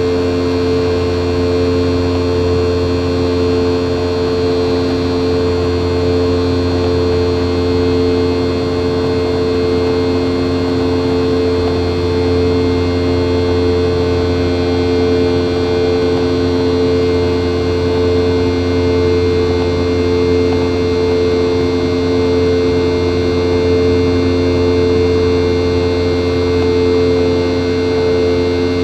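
Boeing 717's rear-mounted Rolls-Royce BR715 turbofan engines heard from inside the passenger cabin: a loud, steady drone with a constant low hum and a few steady tones above it.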